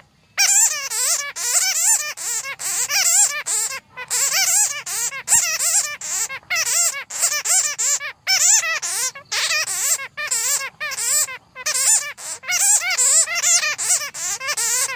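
Bats squeaking and chittering: rapid bursts of high, wavering chirps with brief pauses between them, the kind of call recording played to lure bats into traps.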